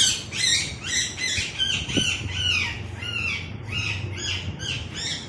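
Baby parrot giving a quick run of short, repeated squawking calls, about three a second, each one rising and falling.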